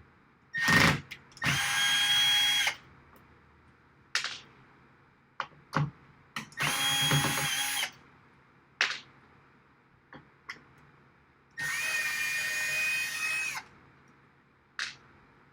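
Power drill-driver running in three short bursts of a second or two each, a steady whine, as it backs screws out of metal rack rails. Short sharp clicks and knocks come between the bursts.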